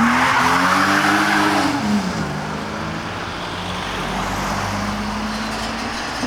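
Car engine under hard acceleration, its revs climbing for about two seconds before dropping back, then holding a steady note as it carries on.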